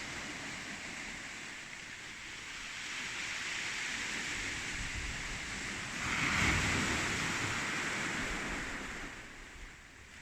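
Sea surf washing onto the beach, mixed with wind buffeting the microphone. A wave swells loudly about six seconds in, and the sound dies down near the end.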